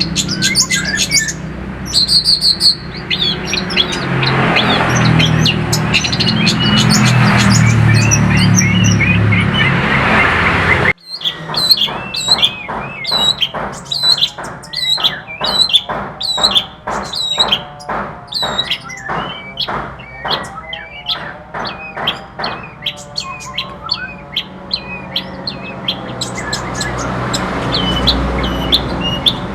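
Songbird singing a loud, varied song over a noisy background. About eleven seconds in, the audio breaks off abruptly and resumes with a long run of quick, repeated rising notes, about two a second.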